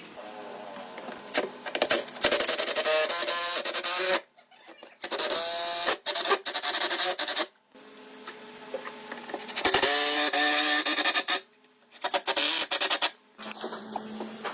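Power tool running on wood in four loud bursts of a few seconds each, its pitch sagging and recovering under load, each burst starting and stopping abruptly.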